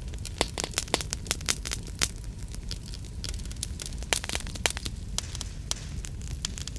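Wood fire crackling and popping, with irregular sharp snaps several times a second over a steady low rumble of the flames.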